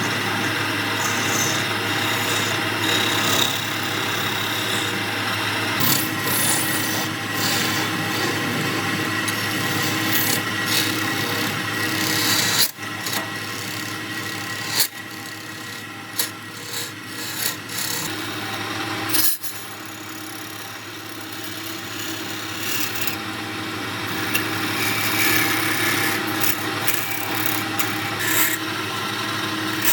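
Wood lathe running with a steady hum while the spinning wood-and-epoxy blank is worked, giving a continuous scraping, rubbing sound. The sound drops out briefly twice, about 13 and 19 seconds in.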